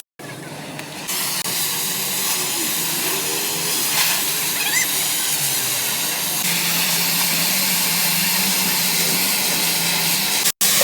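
Stick-welding arc crackling and hissing steadily, growing louder about a second in. It cuts out briefly at the start and again near the end.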